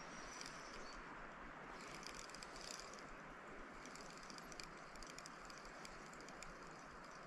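Faint outdoor background hiss with patches of quick, light, high clicking.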